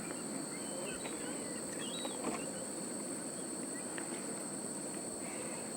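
Steady late-summer insect chorus: an unbroken high-pitched trilling, with a few brief bird chirps about two seconds in.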